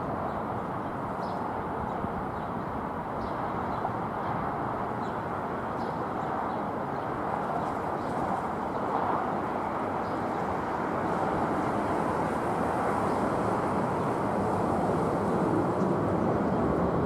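Boeing 777 twin jet engines heard from a distance as a steady rumble that grows gradually louder.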